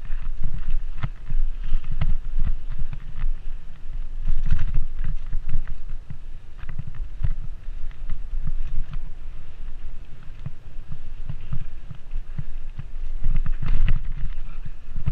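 Mountain bike ridden along a dirt trail: an uneven low rumble of wind buffeting the camera microphone, with scattered clicks and rattles from the bike over the ground.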